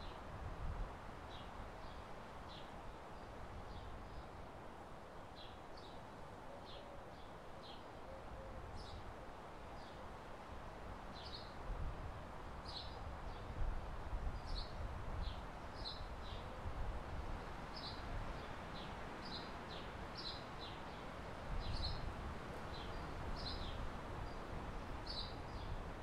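Birds chirping: short, high chirps repeated again and again, coming more often in the second half. Under them runs a low rumble of wind on the microphone that swells a few times.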